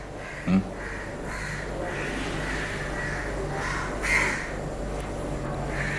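A bird calling over and over in the background, with a brief murmur of a voice about half a second in.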